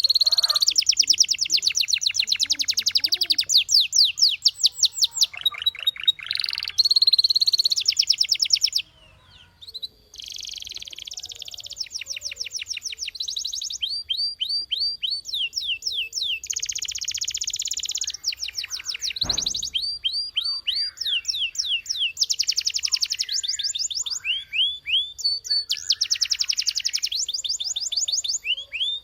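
Canary singing long, fast trills of rapidly repeated high notes, one trill run after another, with a brief pause about nine seconds in. A single short knock sounds about two-thirds of the way through.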